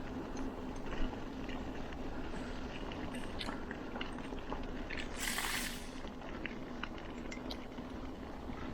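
Bicycle rolling along a track: steady tyre noise with scattered small clicks and rattles, and one brief loud hiss about five seconds in.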